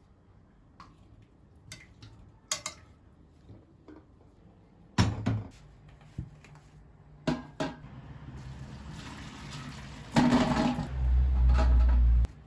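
A few clicks and knocks, like dishes being handled, then water rushing, loud with a deep rumble for the last couple of seconds, and cutting off suddenly near the end.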